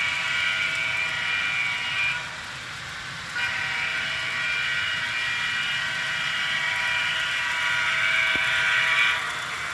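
The HO scale FP9 model locomotive's sound decoder blowing its horn as a multi-note chord, in two long blasts separated by a short break about two seconds in. The model train's running sound continues underneath.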